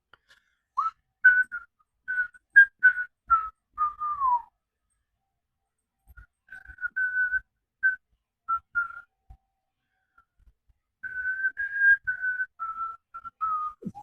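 A person whistling a tune while working: short single notes stepping up and down, in three phrases with pauses between.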